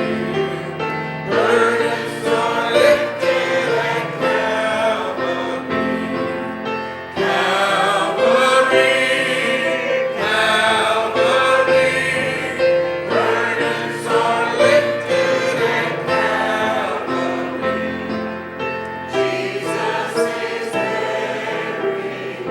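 A congregation or choir singing a gospel hymn in chorus, with keyboard accompaniment holding chords beneath the voices.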